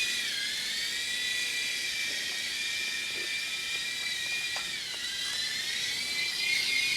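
Air Hogs toy remote-control helicopter in flight: its small electric motor and rotor give a steady high-pitched whine, which dips in pitch briefly near the start and again about five seconds in.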